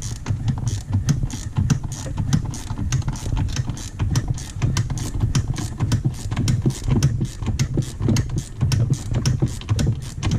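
Socket ratchet clicking in quick irregular runs as the chaincase cover bolts on a snowmobile are backed out, over a steady low hum.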